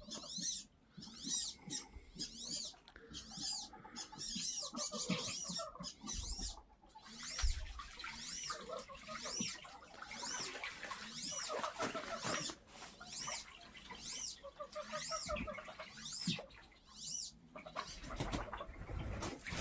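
Ducks calling: a run of high, thin whistles that rise and fall, about one a second, with lower chattering calls in between.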